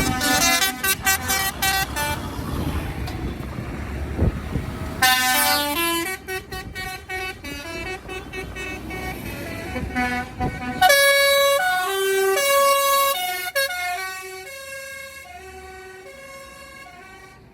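Vehicle horns tooting, first in rapid short blasts and then in longer held notes at several different pitches, over the rumble of passing engines. The engine rumble drops away about halfway through, and the horns fade toward the end.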